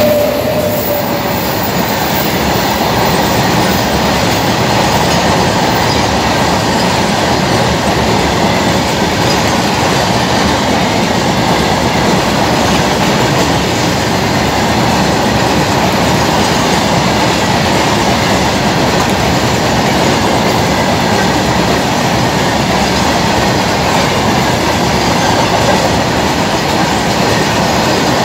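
Freight train of open-top steel wagons running past at close range: a steady, loud rumble of steel wheels rolling over the rails.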